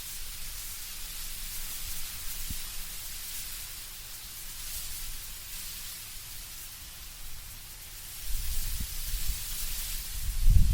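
Wind blowing through autumn trees, leaves rustling in a steady airy hiss that swells and eases. From about eight seconds in, a low rumble of stronger gusts comes in and grows.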